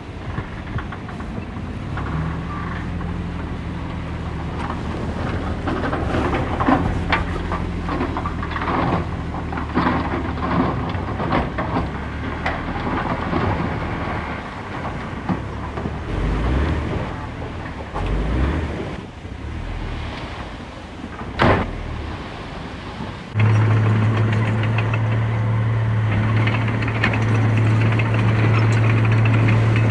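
Heavy diesel engines of earthmoving machines running, the engine note shifting with load, with scattered clanks and a sharp knock. About three-quarters of the way through, the sound switches abruptly to a louder, steady low engine drone.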